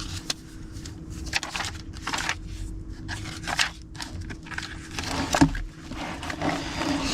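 Pages of a paper planner being turned and handled: a series of short paper rustles and scrapes, one after another, over a faint steady hum.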